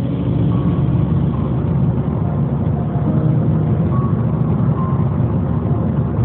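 Steady rumble of a moving vehicle's engine and road noise picked up by a dashcam, with no impact.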